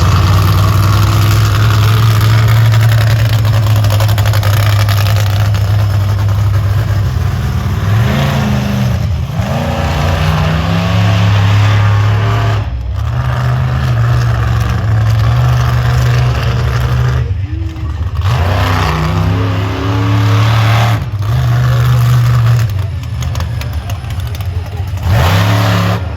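Monster truck engine running at high revs, revved hard again and again. The sound drops out briefly about five times where the throttle is lifted, then picks back up.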